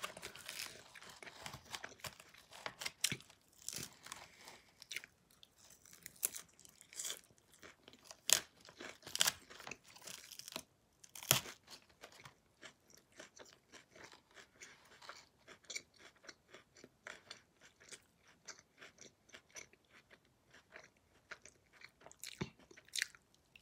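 Close-up chewing and crunching of a lettuce salad in the mouth, in many irregular crisp crunches, with a few louder ones about a third and halfway through.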